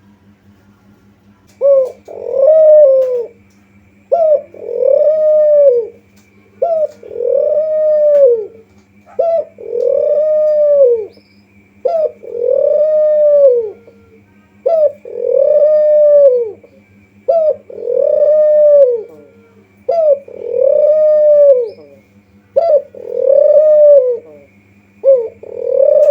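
Spotted dove (kuter/tekukur) cooing over and over, a call about every two and a half seconds. Each call is a short note followed by a longer arched coo, and the calls begin a second or two in. A steady low hum runs underneath.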